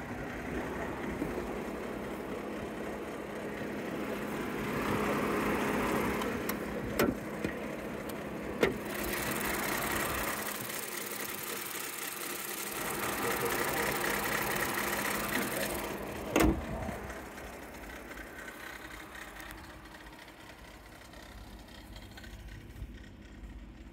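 2010 Lincoln MKT's V6 engine idling steadily, under a rising and falling rush of noise, with three sharp knocks.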